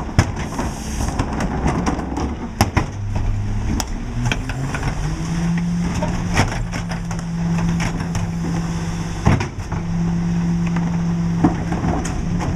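Mack LE garbage truck's diesel engine speeding up about three seconds in and holding a steady higher pitch while the McNeilus rear loader's hydraulic packer runs, with sharp knocks from refuse and the packer blade throughout.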